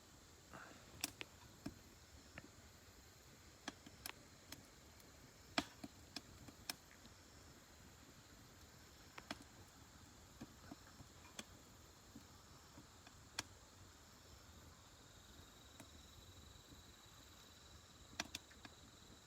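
Wood fire crackling in a Solo Stove Ranger fire pit: irregular sharp pops and snaps over a faint steady hiss.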